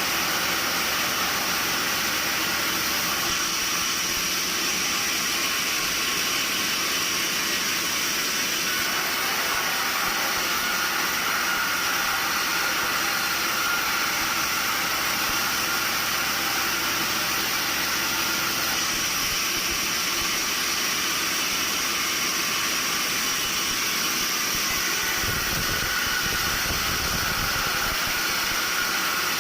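Sawmill machinery running with a steady, even mechanical noise, with a brief low rumble near the end.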